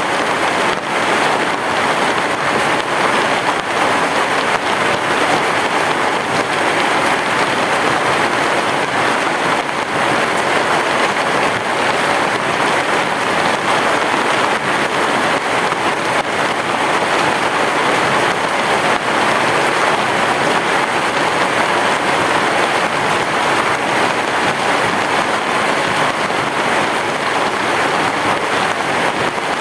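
Heavy rain falling steadily, a dense even hiss with many close drops ticking through it.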